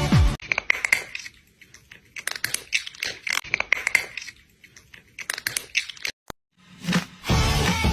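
Irregular crunching and clicking at a moderate level, with a brief dead-silent gap about six seconds in. Music comes back in near the end.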